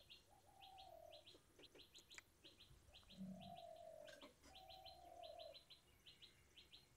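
Faint birdsong: small high chirps repeating in quick pairs and triplets, with three longer, lower cooing notes, one soon after the start, one around three seconds in and one around five seconds in.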